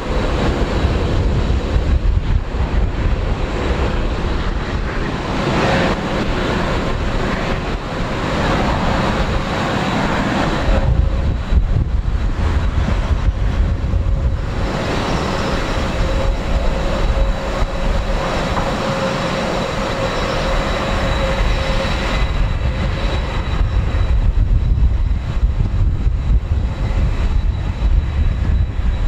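General Electric CF6 turbofan engines of a Boeing 767-300 running: a loud, steady rumble and rush with a thin, high whine held at a steady pitch, swelling and easing a little now and then.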